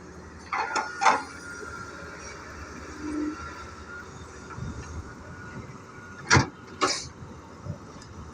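Excavator working while loading mud into a dump truck: a steady machine rumble with a thin whine for a few seconds, broken by two pairs of sharp knocks, about a second in and again near the end.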